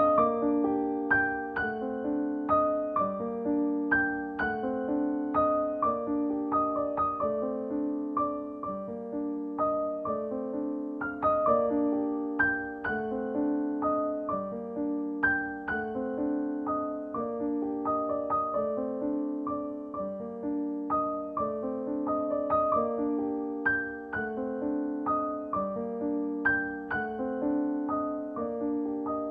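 Background music: piano or electric keyboard playing a gentle, repeating pattern of notes at a steady pace.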